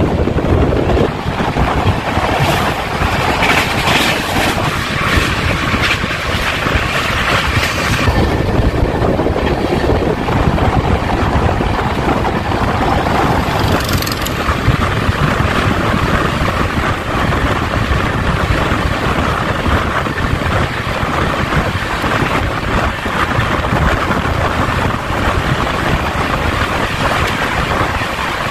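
Passenger express train running at speed: a steady loud rumble of wheels on the rails with wind on the microphone, the noise shifting in tone a couple of times.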